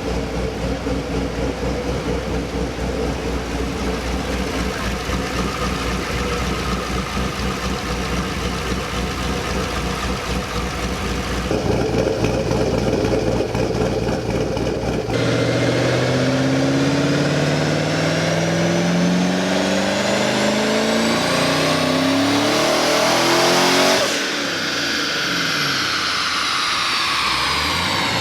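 Chevrolet Camaro V8 on a chassis dyno: idling steadily, then a wide-open-throttle pull from about fifteen seconds in, the engine pitch climbing for about nine seconds. At the top it lifts off abruptly and the engine and rollers wind down.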